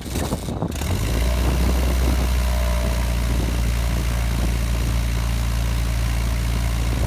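Sherwood Ranger XP biplane's D-Motor four-cylinder twin-spark engine ground-running, settling to a steady note about a second in. The engine is being run to diagnose a misfire on cylinder 3, which the crew suspects comes from the ECU.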